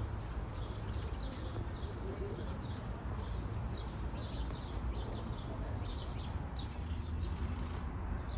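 Many small birds chirping in short, high notes, one after another, over a steady low rumble.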